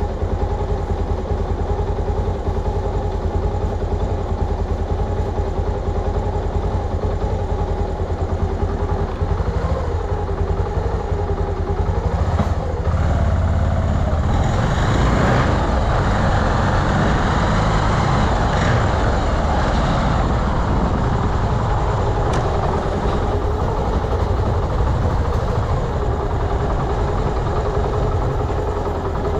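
Honda Beat carburetted scooter's small single-cylinder engine running steadily on the move, with road and wind noise. About halfway through, a louder rushing noise swells up for several seconds, then eases back.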